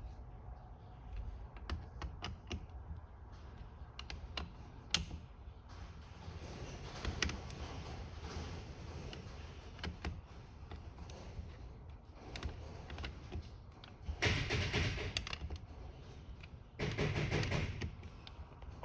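Screwdriver tightening the fuel bowl bolts on a carburetor: scattered small clicks and taps of metal on metal, with two louder rasping bursts of about a second each near the end.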